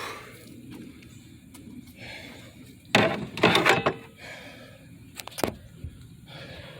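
Hand work on a stuck blow-off valve part in a car's engine bay: a burst of clattering and knocking about three seconds in, then two sharp clicks a couple of seconds later.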